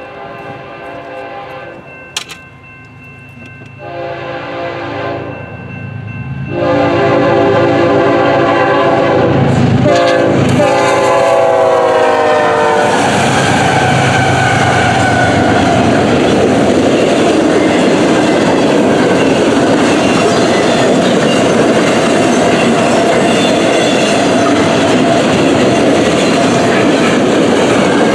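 A BNSF freight locomotive's air horn sounds for a crossing in three blasts. The last is long and held as the locomotives pass, its pitch dropping as they go by. The double-stack container train then rolls past with loud, steady wheel and rail noise and a clickety-clack.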